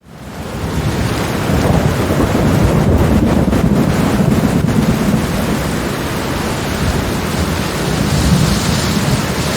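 Steady rainstorm with a continuous low rumble of thunder under the rain, fading in over the first second.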